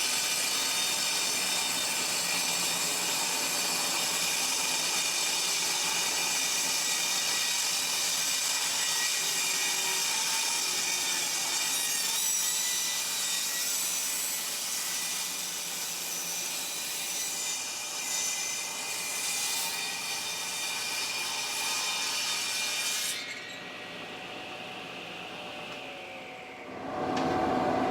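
A power saw on a worktable sawmill ripping a rough reclaimed board lengthwise with a steady, loud cutting noise. The cut ends about 23 seconds in and the sound drops suddenly to a lower hum.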